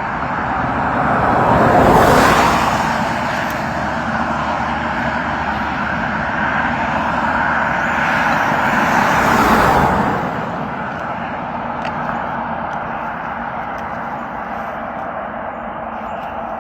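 Road traffic: a steady rushing noise with two vehicles passing by, one about two seconds in and another just before the ten-second mark, each swelling and fading away.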